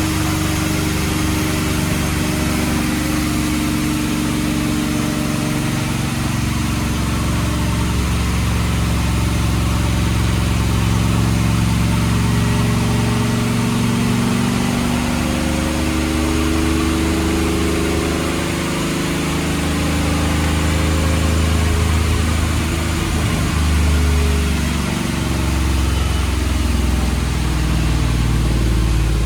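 Supercharged 6.2-litre L87 V8 with a Magnuson 2650 supercharger, long-tube headers and a custom exhaust, running steadily at low speed, its pitch drifting slightly up and down.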